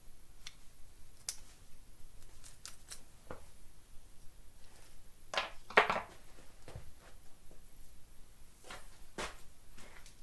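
Scattered light clicks and knocks of things being handled, with a louder knock about six seconds in.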